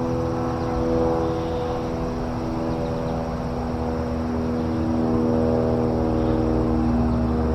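Airplane engine running steadily: a constant, even hum that holds its pitch throughout.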